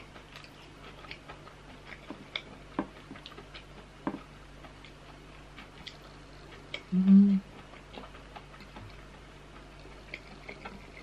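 A person chewing fried mushrooms close to the microphone: small, scattered wet mouth clicks and smacks. About seven seconds in, a short closed-mouth "mm" hum.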